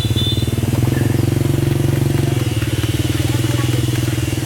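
A motorcycle engine running steadily close by, with an even, rapid putter.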